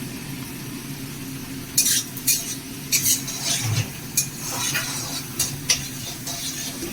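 A spoon stirring and scraping in a pan of sizzling chili chicken gravy, the ground tomato being lightly fried. Short scraping strokes come in a run from about two seconds in, over a steady low hum.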